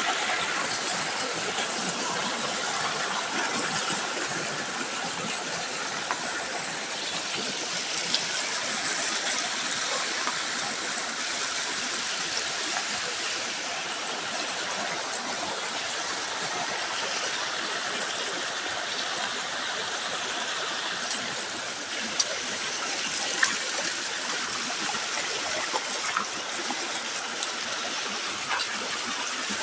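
Steady rushing of flowing water, like a stream, with a few brief clicks near the middle and toward the end.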